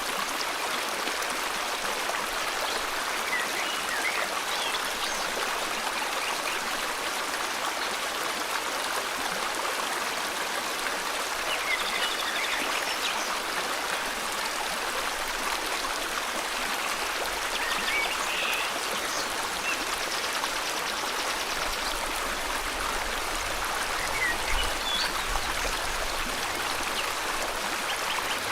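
River water flowing with a steady rush, with short bird chirps and a few quick trills scattered over it.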